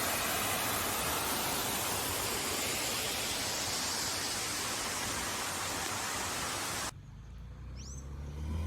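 Rushing water of a small waterfall, a steady even noise that cuts off abruptly about seven seconds in. In the quieter sound that follows come a short bird chirp and a low hum that grows louder near the end.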